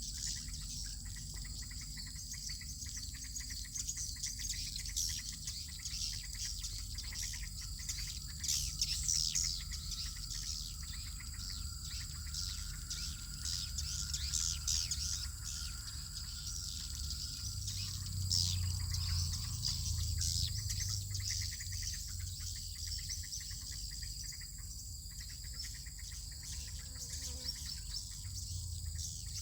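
Swiftlets twittering in many short, high chirps, over a steady high-pitched drone of insects.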